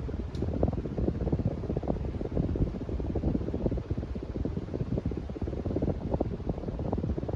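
Casablanca Stealth ceiling fan running, heard mainly as an uneven low rumble of moving air buffeting the microphone.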